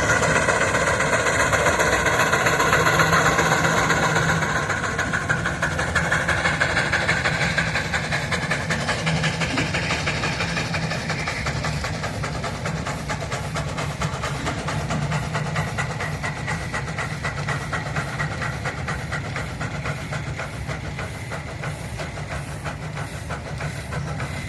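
Rumely steam traction engine working hard, its exhaust chuffing in a fast, even beat over a steady steam hiss, slowly growing quieter.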